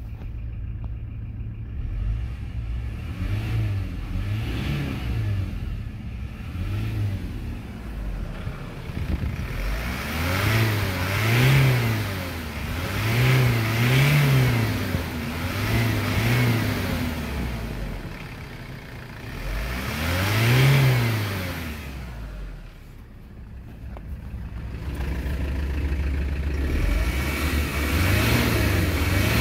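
Kia Sorento's 2.5 CRDi D4CB four-cylinder turbodiesel engine idling and revved in repeated short blips, each quickly rising and falling back. The biggest revs come about a third of the way in and again about two-thirds in.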